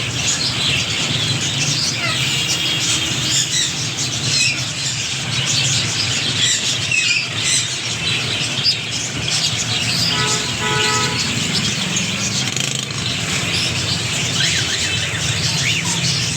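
Many small birds chirping and twittering continuously, over a steady low hum. A short pitched tone sounds about ten seconds in.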